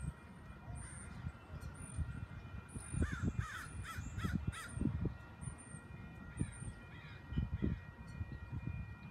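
Birds calling: a run of about five quick calls a few seconds in and a few more soon after, with short high chirps repeating about once a second, over a gusty low rumble on the microphone.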